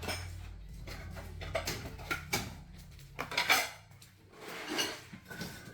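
Irregular clinking and knocking of hard objects, like pots, dishes or other household items being handled and set down, with a few louder knocks midway.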